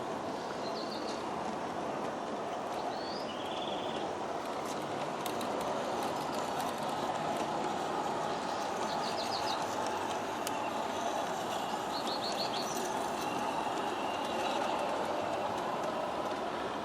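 G-scale model train running on track: a steady noise of metal wheels and gear motors. Short bird chirps and trills come in several times over it.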